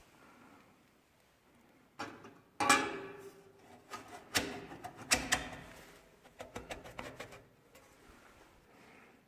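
Hard knocks and rattling clacks, each with a short ring, from a badly fitting SC Project oval exhaust on an Aprilia RSV4 RF being handled. They come in a quick irregular run after about two seconds and die away near the end.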